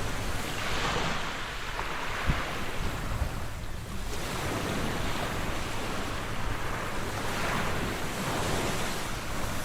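Sea waves breaking and washing in, a rushing hiss that swells and fades every few seconds over a steady low rumble. A brief low thump about two seconds in.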